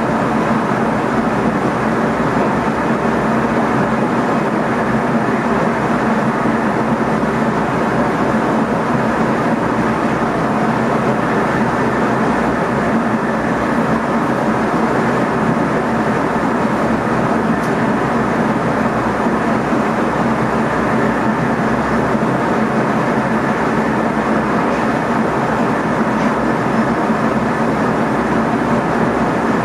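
Steady running noise of an NS ICM electric multiple unit heard inside the driver's cab at speed: an even rumble of wheels on rail with a constant low hum, unchanging throughout.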